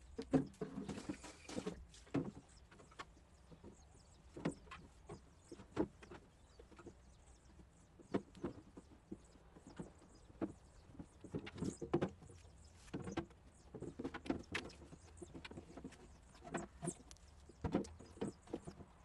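Irregular knocks, clatters and scrapes of plastic refrigerator parts being handled and washed.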